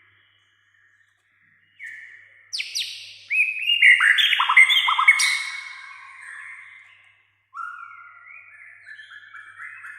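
White-rumped shama (murai batu) singing: after a short silence, a loud burst of rapid, sharply falling whistled notes, then after a brief pause a quieter run of quick repeated notes near the end.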